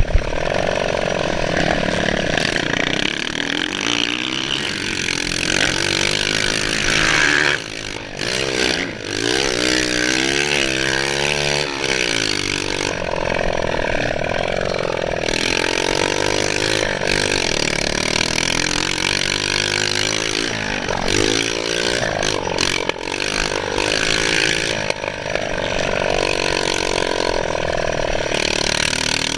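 Motocross bike engine running under a rider, its pitch rising and falling again and again as the throttle opens and closes, over a constant rushing noise.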